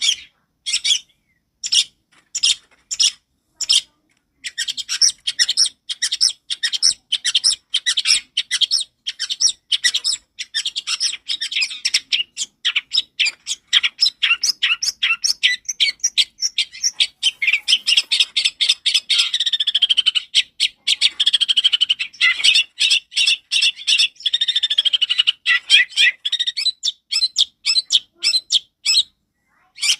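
Long-tailed shrike (cendet) singing loud and clear: a few separate sharp calls, then from about four seconds in a long, rapid run of chattering notes with some falling slurred phrases, easing back to spaced single calls near the end.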